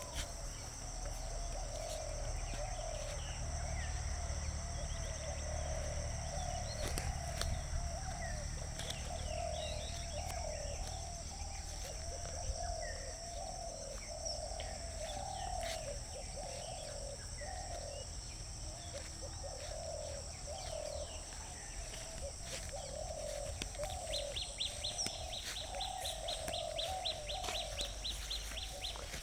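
Several birds calling outdoors: a continuous run of short, low repeated notes, scattered higher chirps, and a fast high trill near the end. Under them run a steady high-pitched insect drone and a low rumble.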